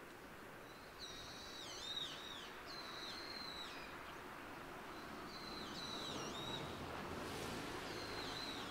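A bird calling several times in short groups: clear whistled notes that hold a pitch and then drop at the end. Underneath is a steady low background rumble, with a brief hiss swelling about seven seconds in.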